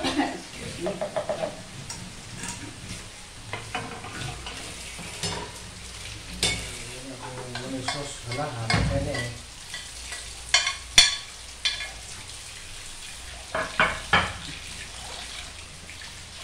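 Food frying in hot oil with a steady sizzle, with several sharp clinks of a utensil against the pan as it is stirred or turned.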